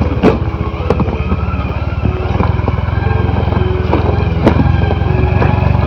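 Motorcycle engine running steadily while riding, with a few sharp knocks, one about a third of a second in and another near the end.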